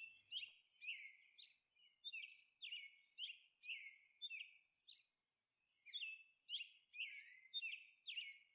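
Faint bird chirping: short falling chirps repeated about twice a second.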